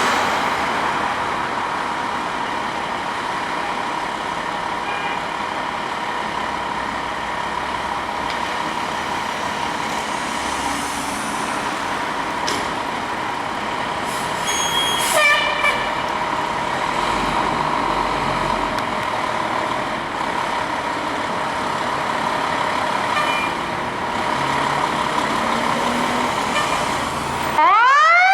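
Steady street traffic with a constant hum, a brief squeal about halfway through, and then, right at the end, the Chicago Fire Department ladder truck's siren suddenly starting its rising wail.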